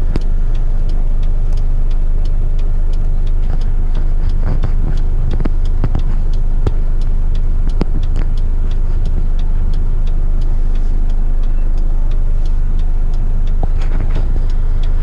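Heavy rigid truck's diesel engine running steadily, heard from inside the cab, with light scattered ticks and clicks over the low hum.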